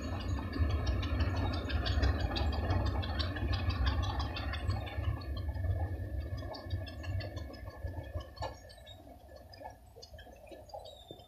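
Diesel multiple-unit train pulling away: a low engine rumble and wheels clicking over the rail joints, fading as the train moves off into the distance.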